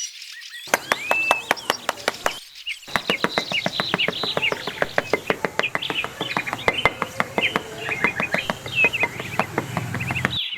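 Small birds chirping and tweeting in quick, high calls, over a rapid, irregular run of sharp clicks that starts about three seconds in.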